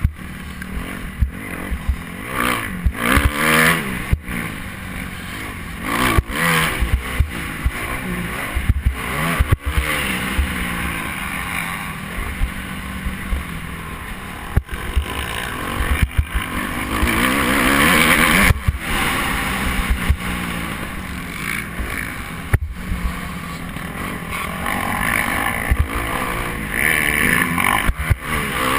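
Motocross bike engines revving, rising and falling in pitch several times as they accelerate and shift, with scattered sharp knocks.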